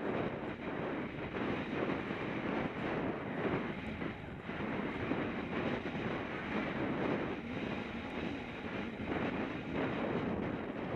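Horse galloping: a steady run of hoofbeats with wind buffeting the microphone.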